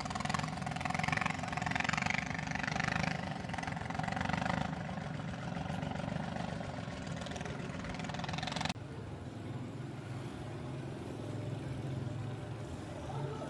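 An engine running steadily, heard from on board a moving vehicle, with a low drone and road or wind noise. The sound changes abruptly about nine seconds in.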